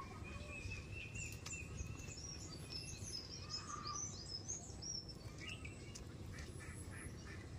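Small birds chirping faintly: a run of short, high chirps over a low, steady background rumble, with a thin, steady high tone in the first couple of seconds.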